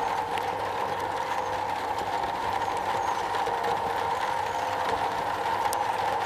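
Rain falling steadily on a metal roof, an even hiss of drops with a few sharper ticks of single drops, one louder near the end.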